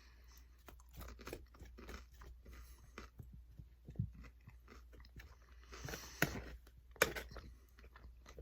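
A person chewing food close to the microphone, with irregular wet clicks and crunches; the louder crunches come about four, six and seven seconds in.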